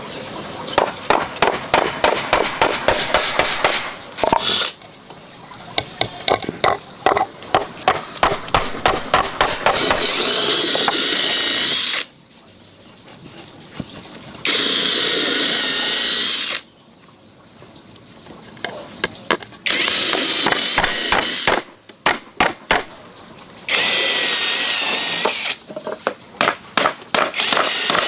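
Woodworking tools at work on wooden stools: a run of sharp knocks about three a second, broken by a few stretches of a steadier power-tool whine lasting about two seconds each.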